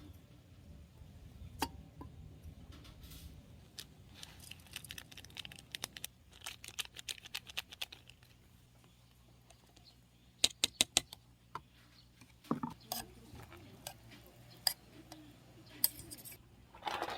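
Light clicks, taps and clatter of small hard objects being handled, with a quick cluster of sharp clicks about ten seconds in.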